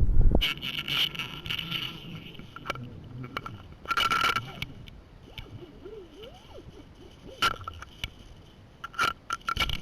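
Fishing reel ratcheting in irregular bursts of clicks while a hooked carp is played from a kayak, with a low wind rumble on the microphone in the first half second.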